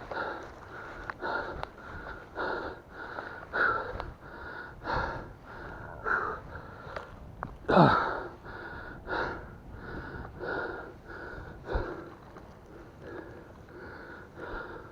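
A man breathing hard after exertion, out of breath: heavy breaths about every second and a half, with a louder breath that ends in a falling groan about eight seconds in.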